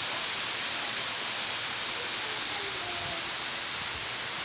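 Steady rushing hiss of water, constant in level with no separate events.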